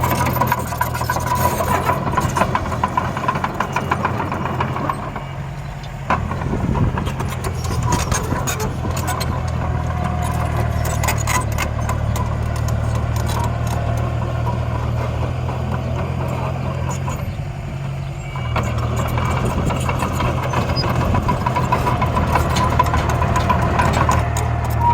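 Miniature dump truck and bulldozer running with a steady low engine drone, which dips briefly about five seconds in and again near eighteen seconds.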